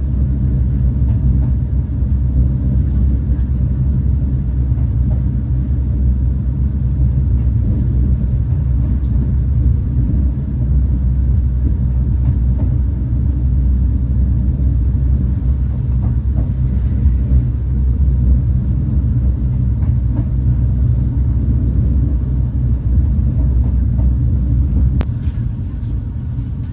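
Steady low rumble of a Renfe class 130 (Talgo 250) high-speed train running along the line, heard from inside a passenger coach. A single sharp click comes about 25 seconds in, after which the rumble drops a little.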